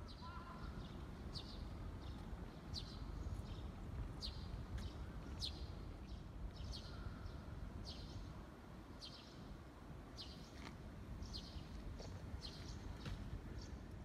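A songbird calling over and over, short high notes that fall in pitch, about one a second and sometimes in quick pairs, over low steady outdoor background noise.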